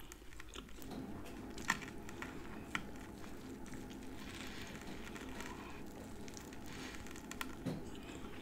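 Faint close-up chewing of a bite of chopped cheeseburger sub on toasted garlic bread, with a couple of soft crunches from the toasted crust.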